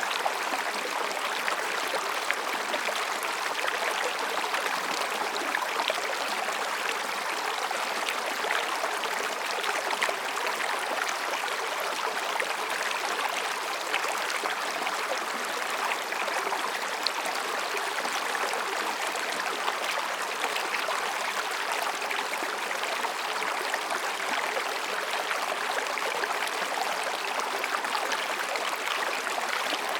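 Mountain stream babbling over and between rocks: a steady rush of water with small splashes and gurgles throughout.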